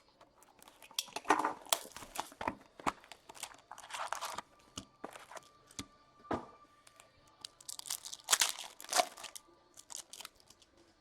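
Plastic wrapping and packaging being torn and crinkled while a sealed box of hockey cards and its packs are opened, in irregular bursts of ripping and rustling.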